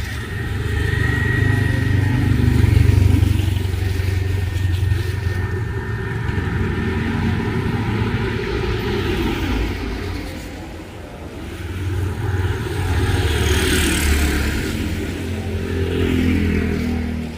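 Motorbike engines passing close by in heavy rain, swelling and fading twice, with rain hiss underneath.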